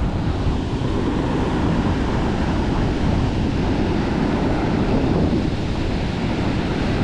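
Steady rushing of a fast-flowing river at a waterfall, with wind buffeting the microphone.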